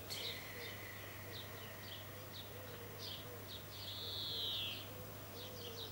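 Birds chirping and whistling: many short high chirps, one long held whistle at the start and a falling whistle about four seconds in, over a steady low hum.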